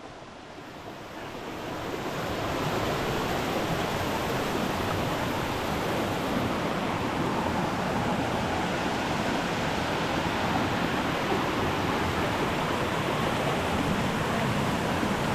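Steady rush of flowing water, fading in over the first two seconds and then holding level.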